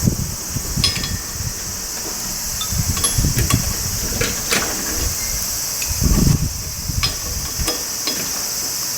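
A steady, high-pitched chirring of crickets or other insects runs under scattered sharp metallic clinks and irregular dull knocks and thuds from hands-on work with tools and parts.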